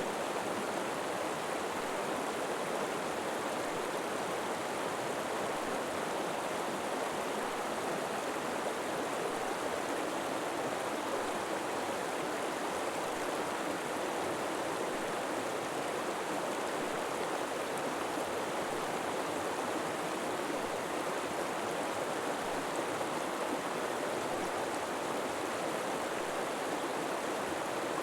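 River water flowing and rushing steadily, an even splashing hiss with no breaks.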